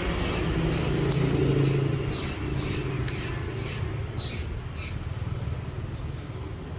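A low engine rumble, like a passing motor vehicle, swells and fades over the first two seconds. Under it runs an even series of short high chirps, about two to three a second.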